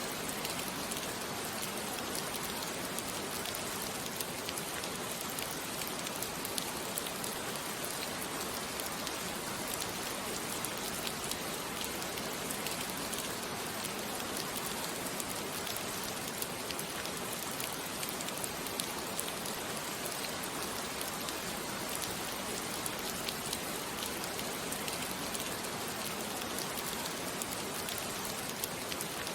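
Steady rain, with a dense patter of drops falling on a surface.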